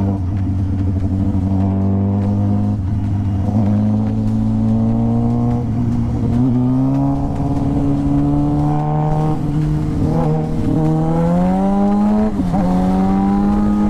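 Motorcycle engine running under way, its pitch climbing slowly and steadily with a few short dips and recoveries, over road and wind noise.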